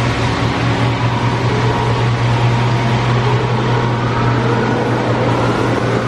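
Car wash tunnel equipment running: a steady, loud mechanical hum and rush, with a faint whine rising slowly over the second half.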